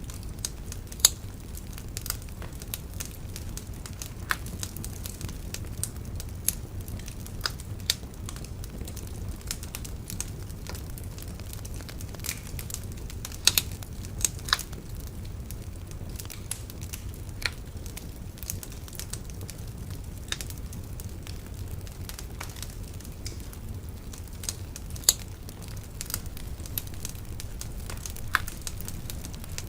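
Wood bonfire burning with a steady low rumble and irregular crackling, with a few louder sharp pops.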